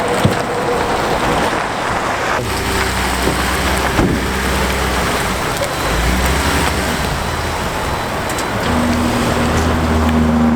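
A van being driven: steady road noise with a low engine hum.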